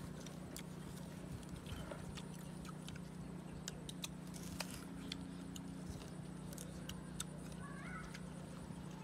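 Crunching and chewing of crisp green star fruit, heard as scattered, irregular sharp clicks over a steady low hum.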